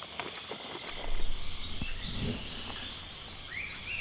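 Insects shrilling steadily, with short repeated chirps above the drone, and a low rumble that comes in about a second in.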